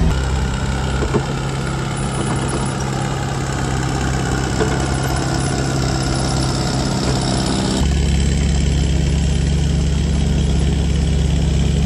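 Kubota KX161 compact excavator's diesel engine running steadily as the machine travels, the engine sound changing abruptly about eight seconds in.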